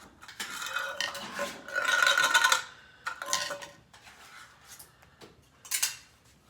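Dishes and utensils clattering and scraping while cat food is prepared: a longer spell of clatter, then two short knocks later on.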